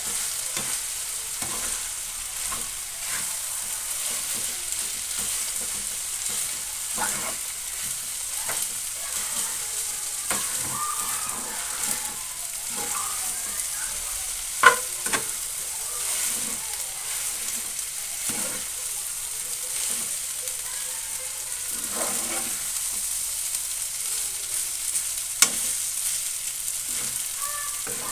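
Fried rice sizzling in a frying pan while a metal spoon stirs and tosses it, with many small scrapes and clicks on the pan. There are two louder knocks of the spoon on the pan, one about halfway through and one near the end.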